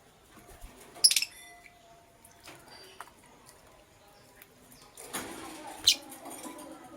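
Lovebirds chirping in short, sharp calls: one about a second in, another near the end, with scratchy noise in between from the birds moving about.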